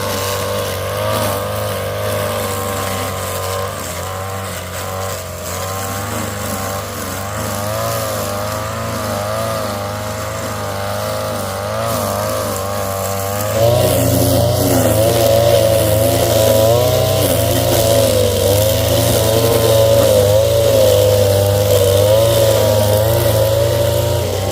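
An engine running continuously, its pitch wavering slowly up and down, and getting louder about 13 seconds in.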